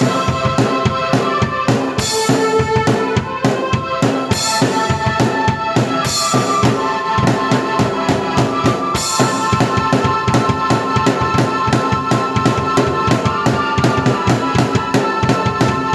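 Drum kit and keyboard played together by one player: a fast, steady beat of bass drum and snare with cymbal crashes about two, four, six and nine seconds in, over held keyboard notes.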